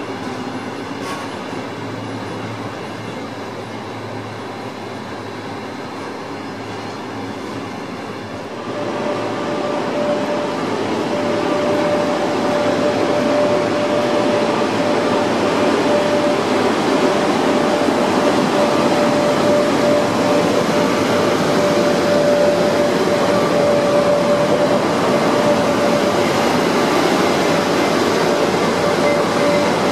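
A passenger train rolling past on the rails. About nine seconds in the sound turns louder: a VR InterCity double-deck train with a pair of Sr1 electric locomotives passing, with a steady whine over the rolling noise.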